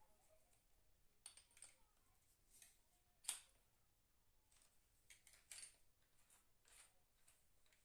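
Near silence with faint scattered clicks and rustles of handling, and one sharper click about three seconds in; no drill is running.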